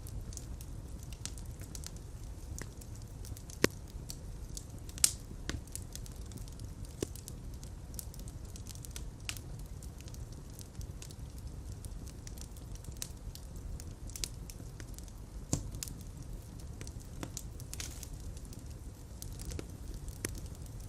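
Fire crackling in a fireplace: a steady low rumble of flames with frequent small crackles and a few louder pops, the sharpest about 3.5, 5 and 15.5 seconds in.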